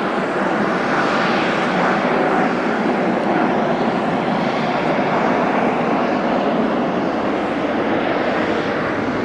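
Jet airliner landing, its engines making a loud, steady rushing noise without letting up.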